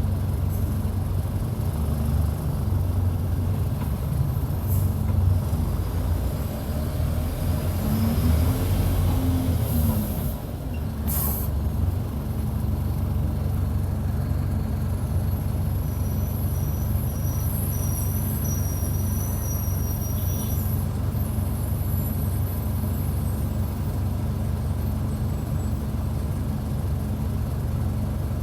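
Mercedes-Benz OF-1722 city bus's diesel engine running under load, heard close to the engine. About eight seconds in it revs up and back down, and a short hiss of air from the air brakes follows at about eleven seconds, after which the engine runs steadily.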